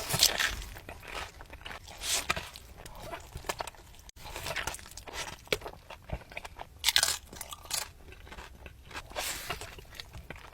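Close-miked crunchy bites and chewing of food, with a loud crunch every second or two and quieter chewing in between.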